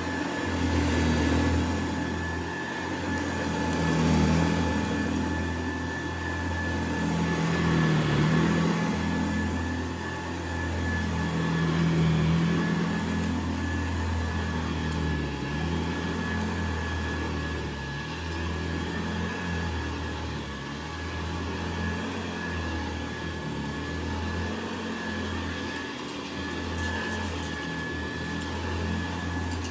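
Hoover Model 70 Convertible upright vacuum cleaner running, a steady motor whine over a low hum, its loudness swelling and easing every four seconds or so.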